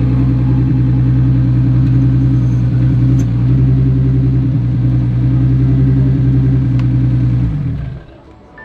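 Car engine idling steadily close by, a low even hum. Its pitch sags as it shuts off near the end.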